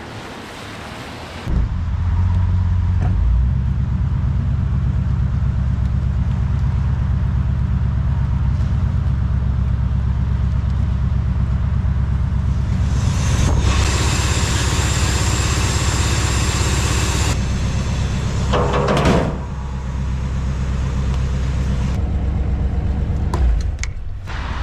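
1962 Ford Galaxie's V8 engine running with a steady low drone that comes in suddenly about a second and a half in. A hiss joins it for a few seconds midway.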